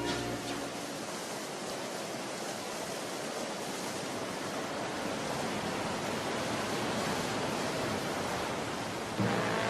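A steady rushing storm noise, an even hiss and roar like heavy rain and wind. Music comes back in near the end.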